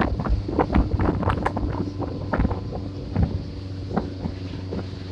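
Boat engine running steadily with a low hum, under frequent irregular thumps and knocks that thin out after about two seconds, with wind buffeting the microphone.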